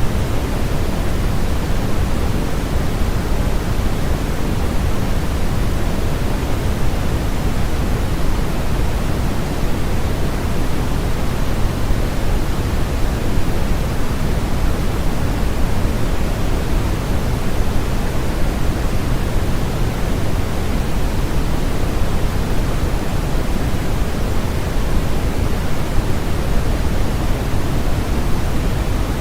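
Steady generated sleep noise, an even rushing hiss that never changes, heavier in the low end than in the highs.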